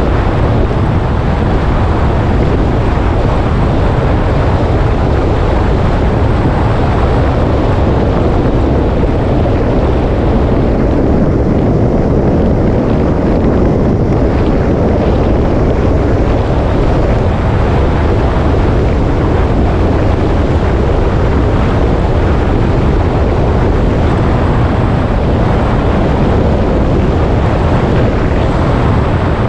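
Motorcycle on the move: engine running with wind blowing over the microphone, a loud, steady noise heavy in the low end.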